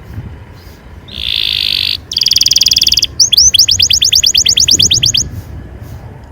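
Domestic canary singing. A buzzy phrase about a second in leads into a fast rolling trill, then a string of quick rising whistled notes at about ten a second, over a low background rumble.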